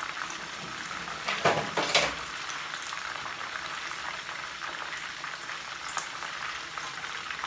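Pieces of chicken frying in oil in a frying pan, a steady sizzle, with two or three sharp knocks about a second and a half in.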